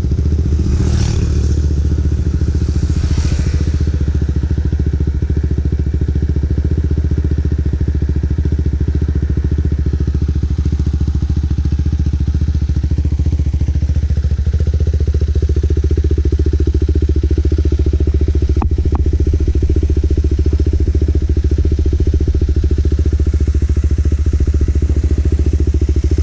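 KTM RC 390's single-cylinder engine running steadily through an aftermarket Akrapovic exhaust, a loud, even, low exhaust note with little change in pitch.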